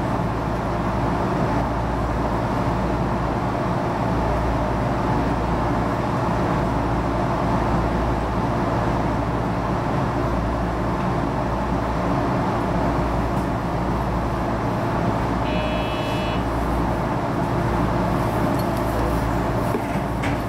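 HB-E210 series diesel-hybrid railcar running at speed, heard from the driver's cab as a steady rumble of wheels and drive. A brief high beep sounds about three-quarters of the way through.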